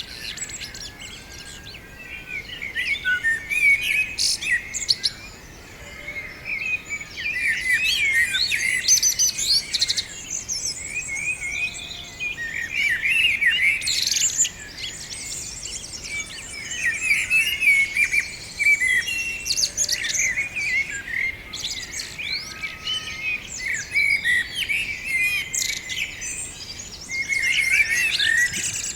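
A flock of small birds chirping and twittering together in a tree: a dense, overlapping chatter of short high calls that swells and dips in waves.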